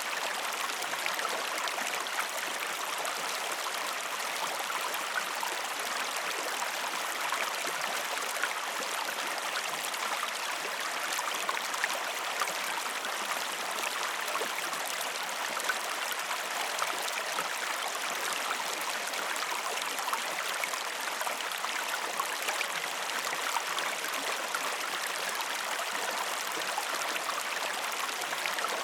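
A river or stream flowing steadily, an even rushing and babbling of water over rocks with fine splashing detail and no change in level.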